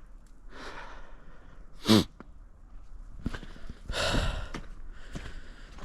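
A man breathing and sniffing in the cold, with one short, loud vocal sound about two seconds in and a few faint footsteps in snow.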